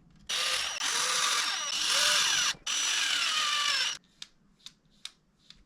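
Small cordless power driver running in two spurts, about two seconds and then just over a second, its pitch wavering as the load changes. After it stops, a few light clicks.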